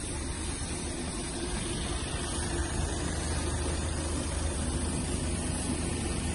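Car engine idling steadily: an even low hum that does not change.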